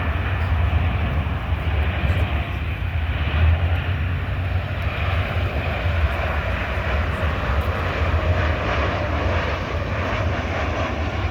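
Boeing 737-800's CFM56 jet engines running, a steady loud roar with a deep rumble.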